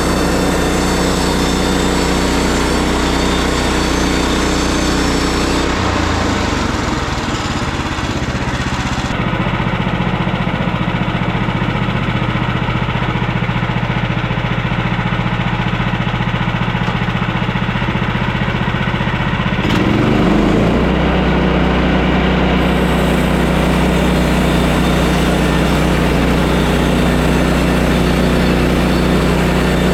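Sawmill's gasoline engine running steadily. Its note shifts and drops about six seconds in, then sweeps back up to a higher steady note around twenty seconds in.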